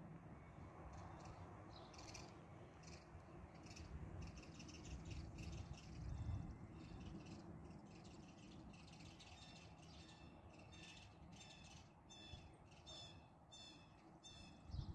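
Faint birdsong: small birds chirping, with a run of repeated chirps near the end, over a low outdoor rumble.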